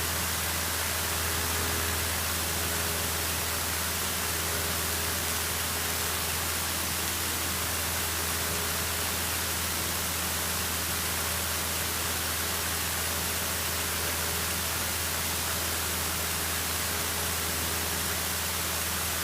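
Steady hiss over a low, even drone of a Cessna 152's four-cylinder engine and propeller in flight, picked up through the aircraft's intercom and radio audio feed.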